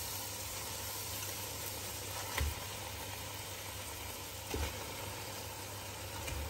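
Fried spice masala sizzling gently in a pot as raw fish steaks are laid into it, with two soft thuds as pieces go in, over a steady low hum.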